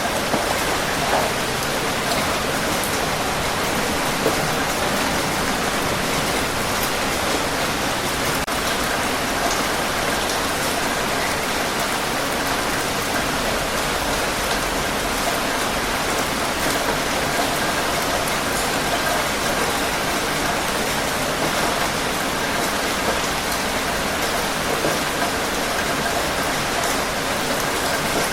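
Steady heavy rain falling, a dense even hiss of drops with scattered individual drips.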